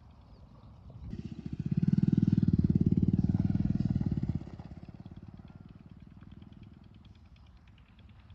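Single-cylinder 8 HP diesel pumpset engine running with a steady thumping beat. It gets much louder about a second in, stays loud for about three seconds, then drops back to a quieter thudding.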